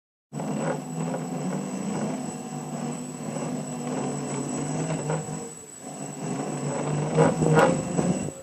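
A vehicle engine running with a steady, droning hum that grows louder around seven seconds in, along with a thin, high steady whine.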